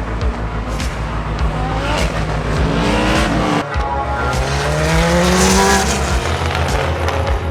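Race car engines running hard on track, their pitch climbing as the cars accelerate, with a second car's engine rising after a break a little over halfway through.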